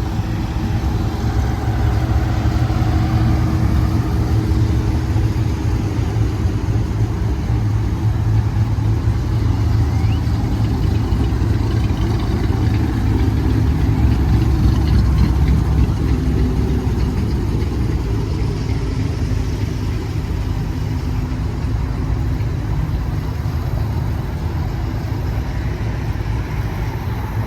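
Car engine running with a steady low rumble, the level rising a little in the middle and easing off towards the end.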